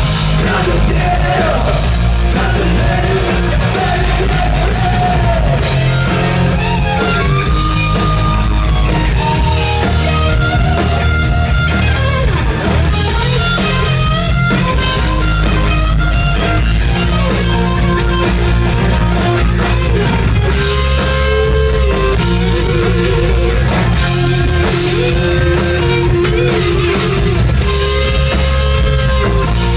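Live rock band playing loud: electric guitar, bass and drum kit, with a singer's voice over them.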